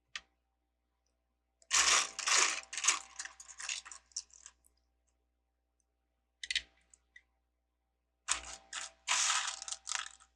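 Loose plastic LEGO bricks clicking and clattering as they are handled, in two runs of two to three seconds each with a brief patter between.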